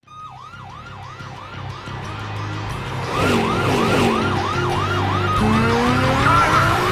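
Police car sirens yelping, a quick falling-and-rising sweep about two and a half times a second, growing louder from faint as they close in; a second siren joins about three seconds in. Near the end a car engine revs up in a rising note under the sirens.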